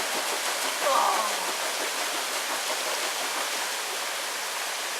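Waterfall rushing steadily into a pool. A short voice or call is heard about a second in.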